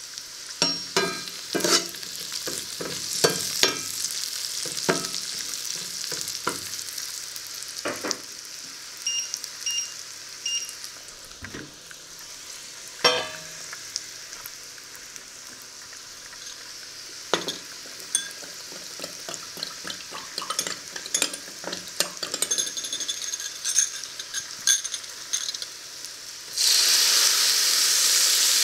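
Sliced radishes frying in oil in a pan: a steady sizzle with scattered crackles and pops. Near the end, liquid poured from a glass into the hot pan sets off a sudden, much louder hiss.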